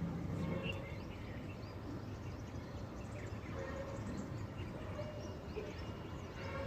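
Outdoor ambience: a steady low background rumble with scattered short bird chirps.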